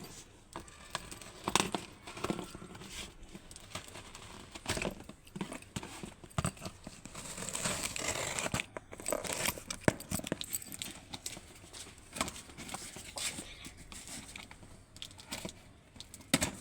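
Product packaging being unpacked by hand: irregular crinkling and rustling of plastic wrap and tearing, with sharp clicks and knocks as the box and parts are handled.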